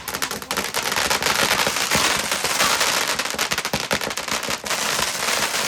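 Fireworks crackling: a rapid, unbroken run of many small pops and cracks.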